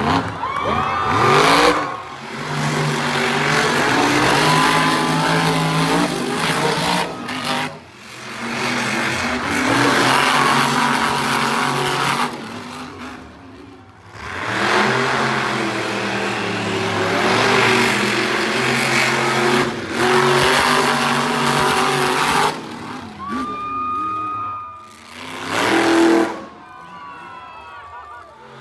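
Monster truck engines revving hard and falling back again and again, in a run of short clips that cut off suddenly between them.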